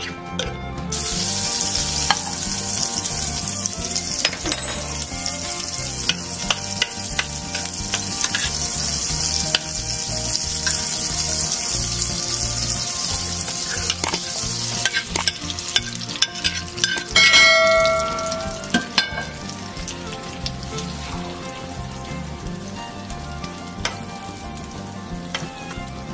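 Chopped broccoli and egg mixture sizzling in a hot frying pan, with a spoon clicking against the pan as it is stirred. The sizzle starts suddenly as the mixture goes in and eases off after about half the time. A brief ringing tone, the loudest sound, comes about two-thirds of the way through.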